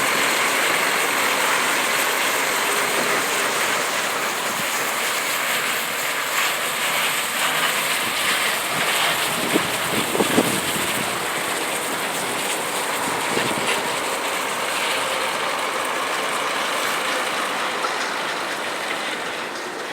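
Scania truck running, a steady rushing mechanical noise with a few knocks about halfway through.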